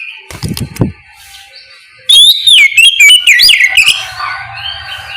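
Oriental magpie-robin (kacer) singing in loud, clear whistled phrases whose notes sweep up and down, starting about two seconds in and carrying on more softly. A few low thumps come in the first second.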